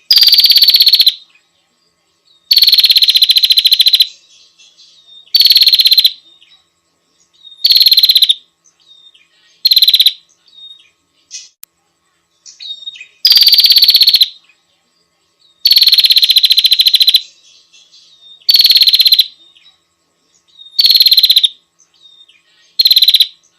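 Female prinia (prenjak) giving a loud, buzzy rattling trill again and again, about ten bursts each half a second to a second and a half long, with soft short chips between them: the female's call used as a lure to draw in males.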